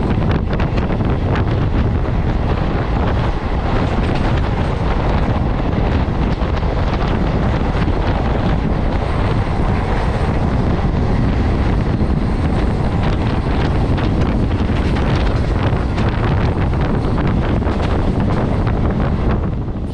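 Wind rushing over the microphone held out of a moving MEMU electric passenger train, mixed with the train's steady running noise on the rails.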